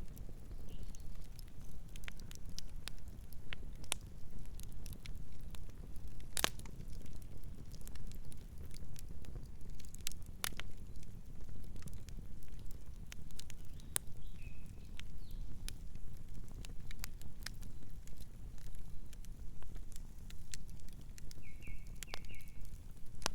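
Campfire crackling, with irregular sharp pops over a steady low rush of burning wood, one pop louder than the rest about six seconds in. A nocturnal bird gives brief faint chirps twice, about halfway through and near the end.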